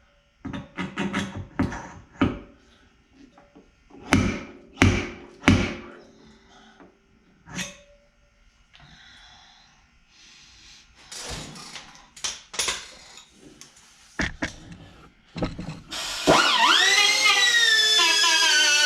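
Sharp metal knocks and taps on a car body panel during dent repair, some ringing briefly, in uneven clusters with a short lull in the middle. About three seconds before the end, guitar music comes in and takes over.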